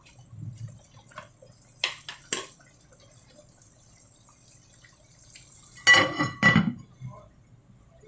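Kitchen handling sounds: a few light clicks about two seconds in, then a louder clatter of cookware or dishes about six seconds in, ringing briefly.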